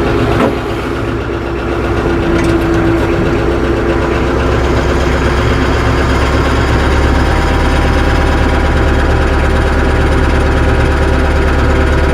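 Tractor engine running steadily at low speed as the tractor creeps forward, drawing its snow chain under the tyre. A brief knock sounds about half a second in.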